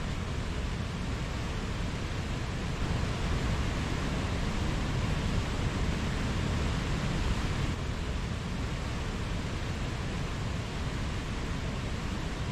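Mountain stream flowing: a steady rush of running water, a little louder for a few seconds in the middle.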